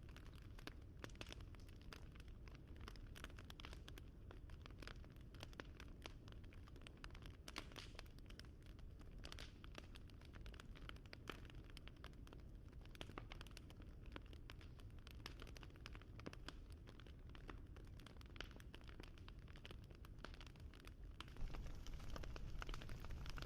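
Fire crackling softly: a dense, irregular run of small pops and snaps over a low rumble, slightly louder near the end.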